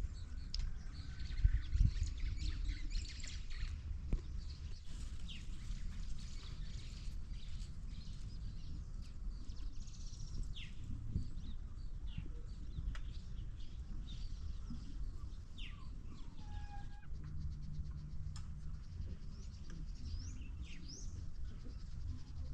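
Wild birds chirping and calling: many short, quick high chirps scattered throughout, and a lower falling whistle past the middle, over a steady low rumble.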